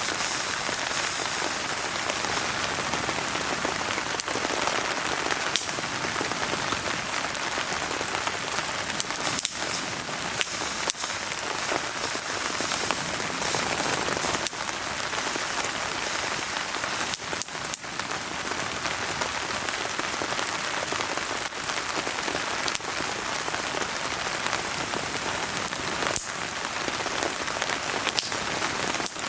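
Steady rain falling, with a wood fire crackling in a fire pit beneath it and a scattering of sharp pops.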